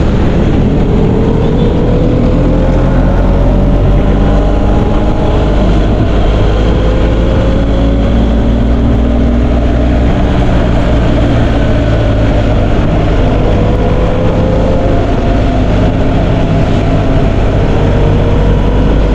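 Motorcycle engine running under way with heavy wind rush, its pitch rising slowly and easing back a couple of times.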